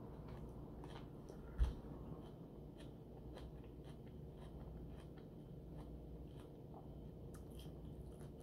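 A person chewing a soft spring roll close to the microphone, with many small wet mouth clicks and smacks. A single dull thump about a second and a half in is the loudest sound.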